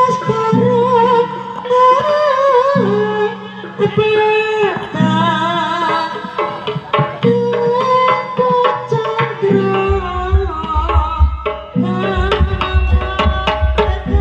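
Jaranan music: a wavering melody over kendang hand-drumming, with a low note repeating about once a second. About ten seconds in, deep drum strokes join and the drumming gets busier.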